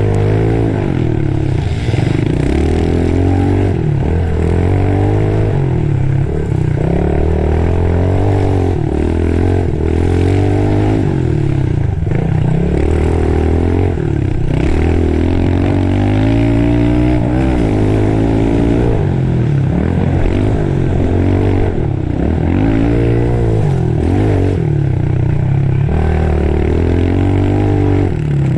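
Pit bike engines revving up and falling off repeatedly as the small dirt bikes are ridden around a track and over jumps.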